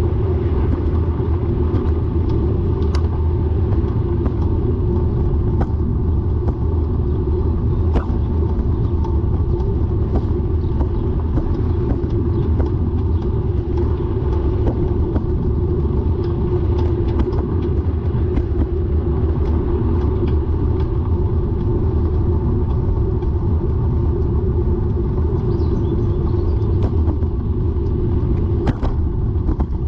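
Bicycle being ridden, with a steady low rumble of road and wind noise and sharp clicks scattered through it. The clicks are the bike's rotational clicking noise, which the rider hopes is not the bottom bracket.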